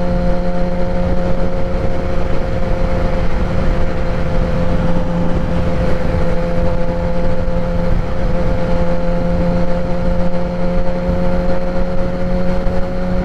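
2016 Kawasaki ZX-10R's inline-four engine, fitted with a Graves race exhaust, running at steady cruising revs with an even pitch that creeps up slightly in the second half. Wind buffeting rumbles underneath.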